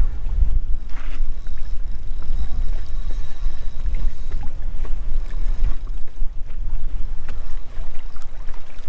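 Wind buffeting the microphone out on open water: a loud, gusty low rumble with a few faint knocks.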